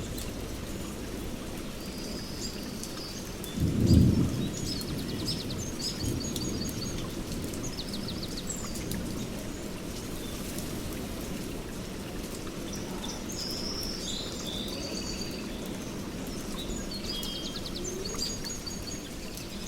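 Songbirds chirping and trilling in short scattered phrases over a steady low rumbling background. A brief, louder low rumble comes about four seconds in.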